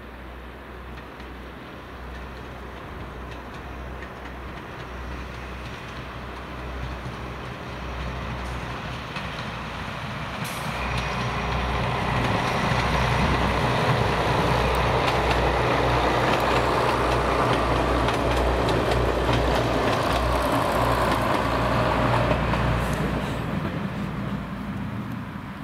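A train passing by: the sound builds over about ten seconds, stays loud with a low rumble and a rapid clatter for about ten seconds, then fades near the end.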